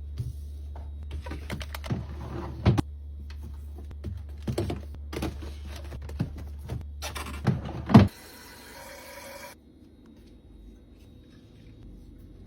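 Items and containers clicking and knocking as they are handled and set down, over a steady low hum. The hum cuts off suddenly about eight seconds in, right after the loudest knock, and a short hiss follows.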